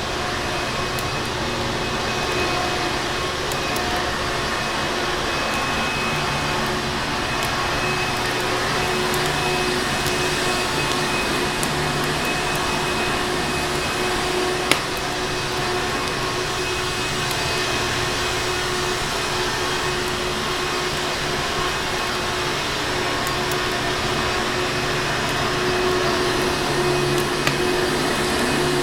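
Vacuum cleaner running steadily, a dense even rush with a constant motor hum, with a few faint fireplace crackles and one sharper pop about halfway through.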